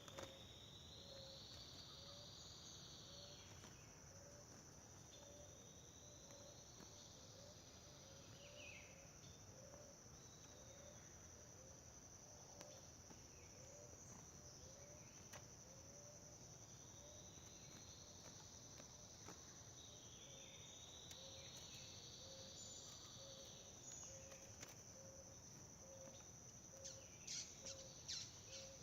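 Faint outdoor ambience of crickets and other insects trilling steadily, with a soft low note repeating about once a second and a few swells of hiss lasting a couple of seconds each. A few light clicks near the end.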